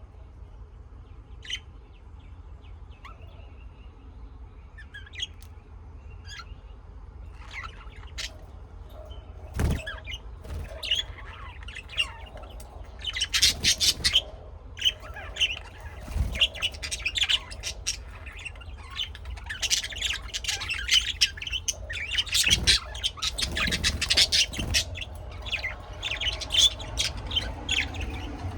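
Small birds chirping and squawking in many short calls, sparse at first and much busier in the second half, with a few sharp knocks and a steady low hum underneath.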